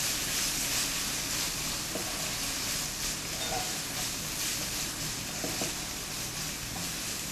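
Bell peppers, onion and garlic sizzling steadily in hot oil as they are sautéed in a pan.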